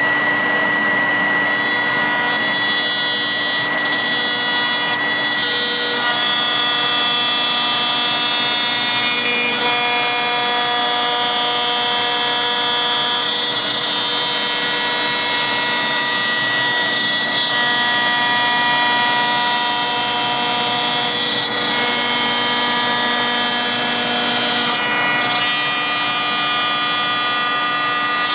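CNC router spindle milling 21 mm multiplex plywood: a loud steady whine over the rushing noise of the cut, its set of tones shifting in steps every few seconds as the machine moves along its path.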